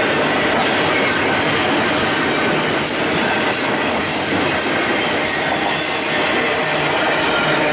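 Double-stack container well cars rolling slowly past on the rails: a steady noise of steel wheels on track, with faint thin high squeals from the wheels.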